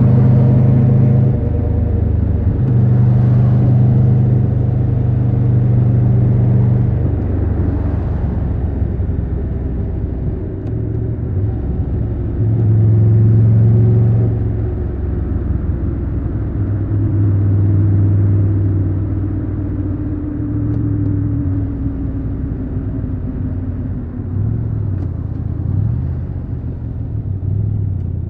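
Triumph Tiger 1200 Rally Pro's three-cylinder engine running on the move, its note stepping up and down several times with the throttle. A slowly falling tone runs through the second half.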